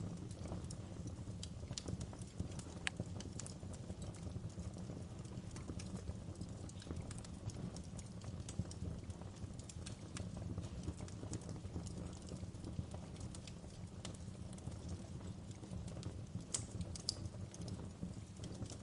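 Fireplace crackling: a steady low rumble of burning wood with irregular sharp pops and snaps scattered throughout, a few louder pops near the end.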